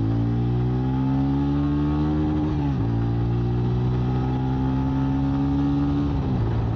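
TVS Ronin 225's single-cylinder engine accelerating hard. Its pitch climbs steadily, drops sharply at an upshift about three seconds in, then climbs again and drops at a second upshift near the end.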